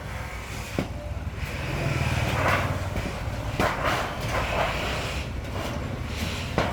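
Workshop machinery running with a steady low hum, struck by a few sharp metal knocks and short noisy bursts during sheet-metal kettle making.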